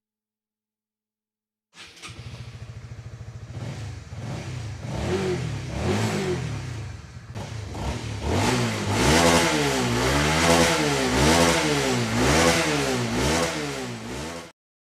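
Motorcycle engine running, its pitch wavering at first and then revved up and down over and over, about once a second, before cutting off suddenly near the end.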